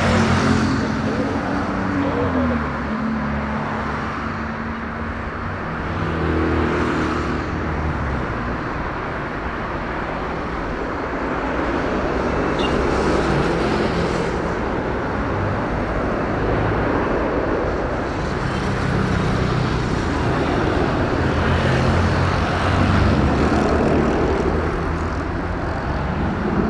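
A steady outdoor rumble of engines with traffic-like noise, and a faint tone sliding down in pitch in the first few seconds.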